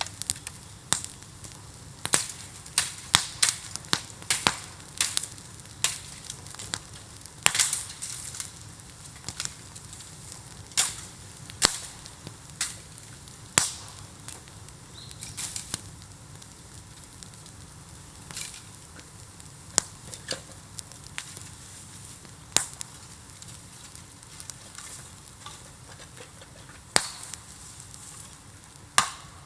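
A heap of bamboo burning in an open bonfire: a steady hiss with irregular sharp cracks and pops, clustered several a second in places and sparser towards the end.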